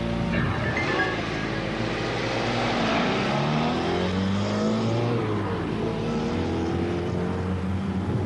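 Car engine running, its pitch rising and falling several times as it accelerates and changes speed.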